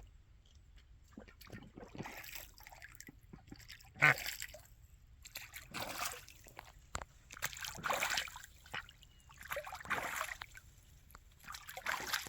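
Pond water splashing and sloshing in bursts about every two seconds as waterfowl bathe and play in it; the sharpest splash comes about four seconds in.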